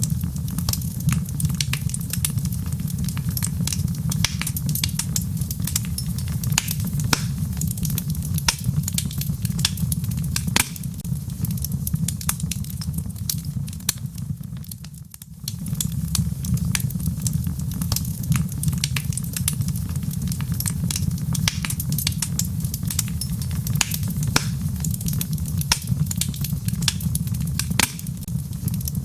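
Wood fire burning in a fireplace: logs crackling with many irregular sharp pops and snaps over a steady low rumble of the flames. The sound dips briefly about halfway through, then carries on as before.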